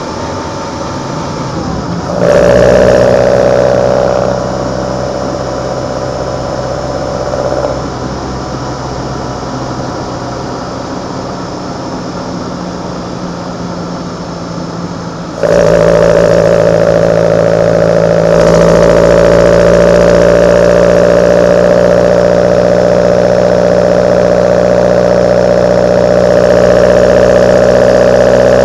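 A Kadett GS 16v four-cylinder engine breathing through side-draft Solex C40 ADDHE carburetors. About two seconds in there is a brief burst of throttle, then it runs at light throttle. About halfway through the throttle is opened sharply and held, and the intake sound stays loud as the pitch rises slowly.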